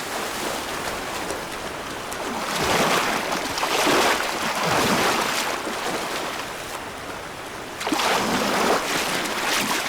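River water rushing and splashing, with two louder bouts of heavy splashing: brown bears charging through the shallows after salmon.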